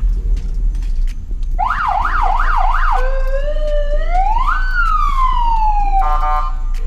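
Aftermarket police-style siren on a PA system, loud. About a second and a half in it sounds a fast yelp, sweeping up and down about three times a second, then one slow wail rising and falling, and ends with a short rapid warble.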